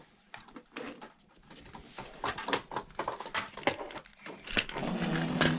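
Irregular clicks and taps of hard plastic toy monster trucks knocking and rolling on a plastic playset. A low steady hum starts near the end.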